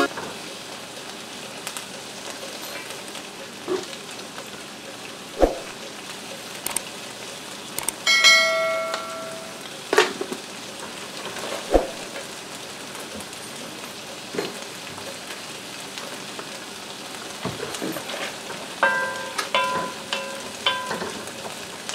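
Chicken and vegetable stir fry sizzling steadily in a wok, with a few scattered knocks. A short bell-like chime sounds about eight seconds in, and a few more brief pitched tones come near the end.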